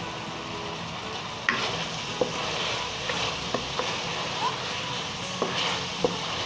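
Minced meat (keema) frying in oil in a metal pot, sizzling, while a wooden spatula stirs it and scrapes and knocks against the pot several times. The sizzle comes up about a second and a half in.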